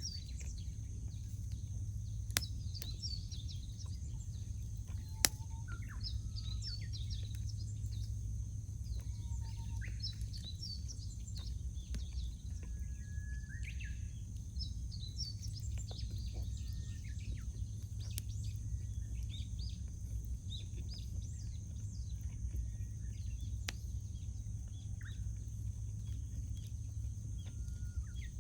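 Wild birds chirping and calling over a crackling wood fire, with two sharp pops from the fire about two and five seconds in. A steady low rumble runs underneath.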